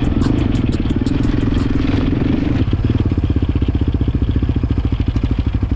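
Pit bike's small single-cylinder engine running while riding through snow. About two and a half seconds in, its note drops to a slower, even chugging pulse.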